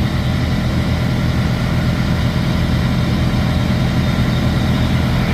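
Heavy truck diesel engine idling steadily, a constant low hum.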